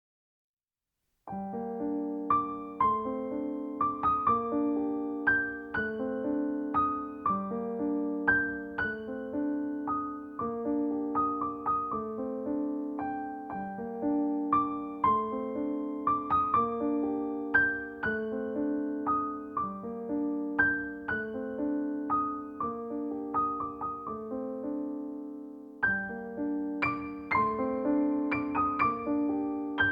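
Background piano music: a gentle, repeating pattern of notes, starting after a second or so of silence.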